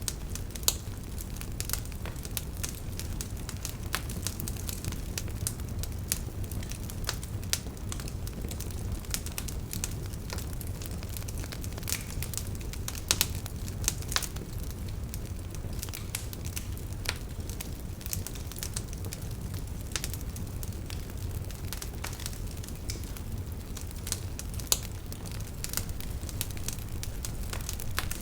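Wood fire burning in a fireplace: a steady low rumble of flames with constant irregular crackles and occasional sharper pops.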